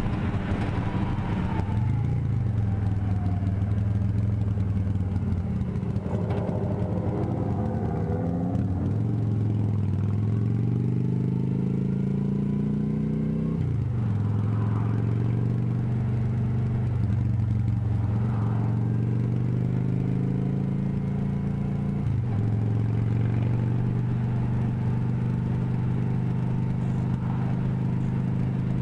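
Motorcycle engine under way, its note climbing as it accelerates and dropping suddenly at gear changes about halfway through and again about 22 seconds in, then running steadily.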